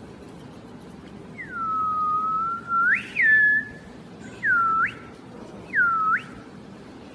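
A clear, whistle-like tone sounding four times. The first call is long and low-swooping, ending in a sharp rise. Three shorter calls follow, each dipping and then swooping up at the end.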